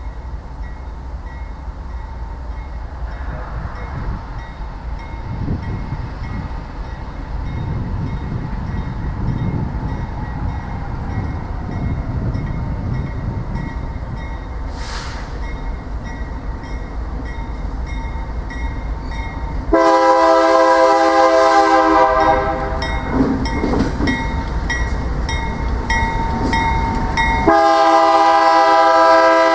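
Approaching train's low rumble growing gradually louder, then a diesel locomotive's air horn blowing a multi-note chord: once for about two seconds, then again near the end.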